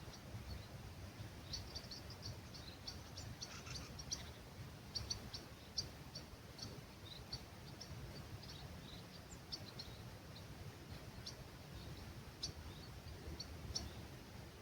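Small birds chirping at dawn: many short, high chirps come singly and in quick runs, densest from about a second and a half in through the middle. A steady low rumble of breeze lies underneath.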